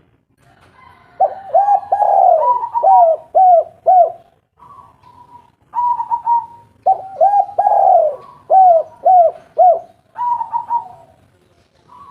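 Spotted dove cooing: two song phrases of about three seconds each, every phrase a run of short hooked coos ending in three or four separate notes, with softer coos between the phrases.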